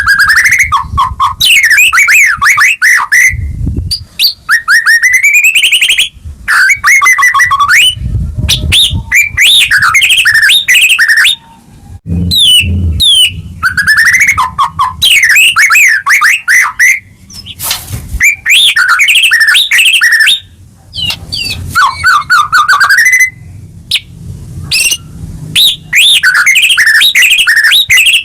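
White-rumped shama singing loudly and continuously in rapid, varied phrases of whistled glides and trills, broken by short pauses.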